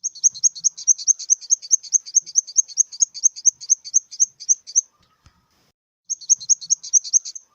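Grasshopper sound effect: a rapid, even series of high chirps, about six a second. They stop about five seconds in and start again a second later.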